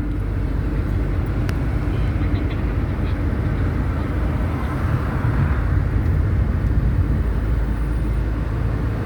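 Steady low rumble of a car driving along a road, with engine and tyre noise.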